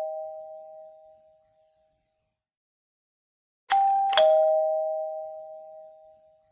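Two-tone doorbell chime sounding ding-dong, a higher note then a lower one, each ringing and fading away. The chime sounds again a little over halfway through, after the fading tail of one just before.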